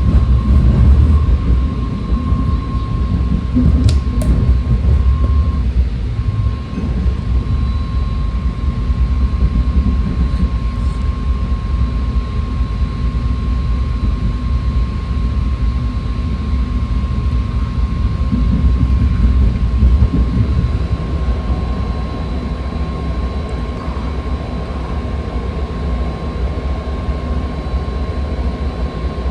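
BART train car running at speed, heard from inside: a loud, steady low rumble of wheels on rail with a thin, steady high whine over it and a brief click about four seconds in.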